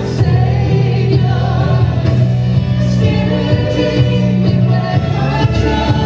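Church worship music: a band playing a song with voices singing along.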